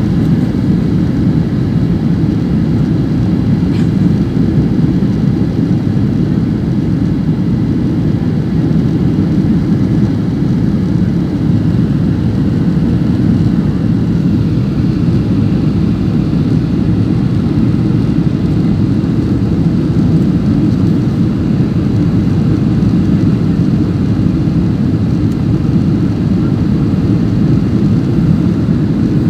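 Steady engine and airflow noise heard inside a passenger aircraft cabin: a dense, even low rumble that holds unchanged.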